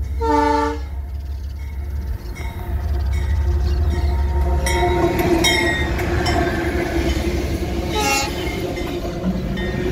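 Diesel freight locomotive giving a short horn blast as it comes close, then its engine rumbling and its wheels clicking over the rails as it passes; a second brief horn toot about eight seconds in.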